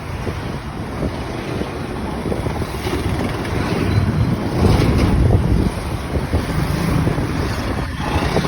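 Wind buffeting the microphone of a moving motorcycle, with the motorcycle's engine and road noise underneath, swelling and easing with speed.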